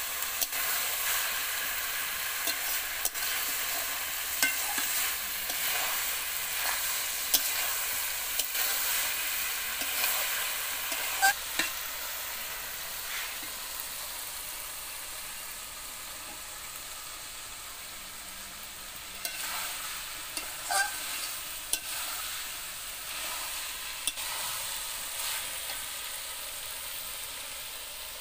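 Chopped kharkol leaf stalks frying with a steady sizzle in oil in a large metal karahi, while a metal spatula stirs them, scraping and knocking against the pan now and then. There is a short flurry of knocks about two-thirds of the way through.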